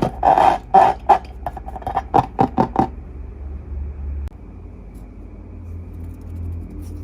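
Slime being squished by hand, giving a quick run of sticky pops and clicks for about the first three seconds, followed by a low steady hum.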